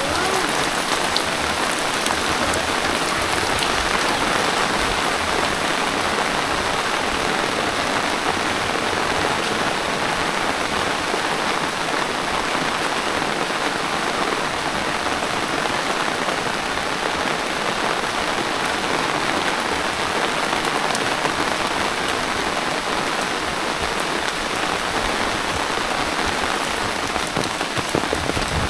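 Steady rain falling, an even hiss of drops that keeps the same level throughout.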